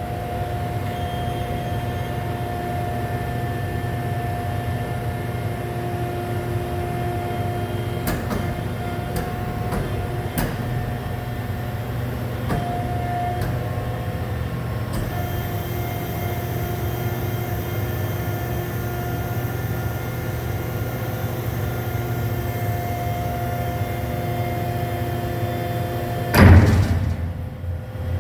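Industrial baler and Gaylord dumper machinery running: a steady motor hum with several held tones, a few light clicks about a third of the way in, and a loud clunk near the end.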